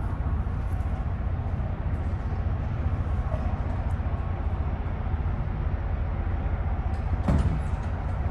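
Truck driving on the road: a steady low rumble of engine and road noise, with a brief louder bump about seven seconds in.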